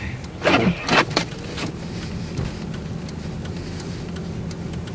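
Car running, heard from inside the cabin as it pushes through deep snow: a steady low hum, with a few short loud swishing sweeps falling in pitch about half a second to a second in.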